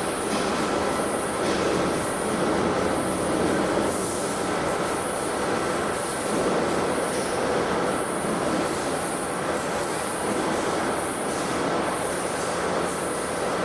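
Industrial tire-shredding machinery running continuously: a steady, dense mechanical noise with a faint, steady high whine.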